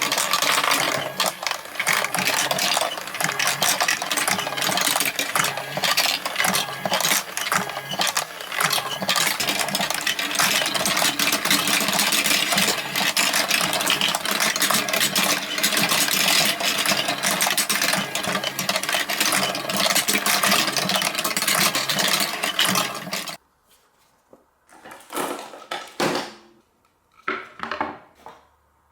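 Many marbles rolling and clacking down a block marble run track in a dense, continuous clatter that cuts off suddenly about 23 seconds in, followed by a few scattered clicks.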